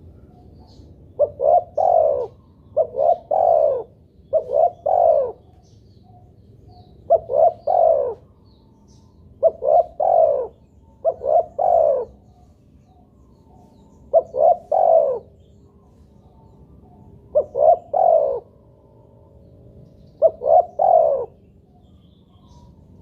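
Spotted dove cooing: about nine phrases, each a couple of short quick notes and a longer falling coo, repeated every second to three seconds.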